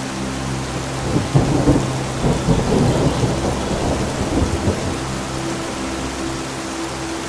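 Thunder rumbling for about four seconds, starting about a second in, over the steady hiss of rain and a held low drone of background music.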